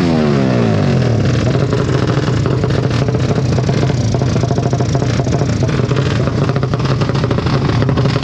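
A motorcycle goes by with its engine note dropping in pitch in the first second, then motorcycle engines with open exhausts keep running steadily, with a rough, clattering exhaust sound.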